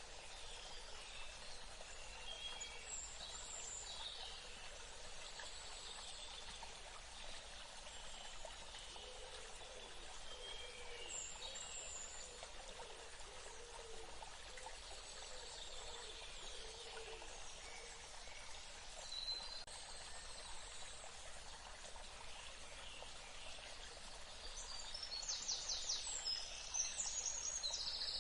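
Steady rush of running water, with scattered bird calls over it. Near the end a bird's quick, repeated chirping comes in louder.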